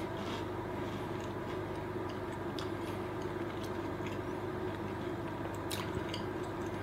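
A person chewing a bite of oven-baked pizza toast, with a few faint crunches and mouth sounds over a steady low hum.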